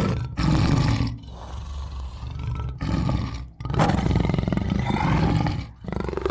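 A big cat roaring: a series of long, loud roars with short breaks between them, quieter stretches between the roars, and a last short roar near the end.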